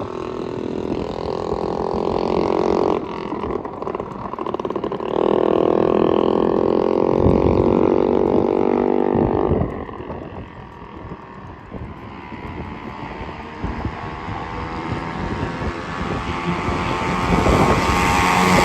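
Minibike's small engine running hard, easing off about three seconds in and picking back up, then dropping quieter around ten seconds in before building again toward the end.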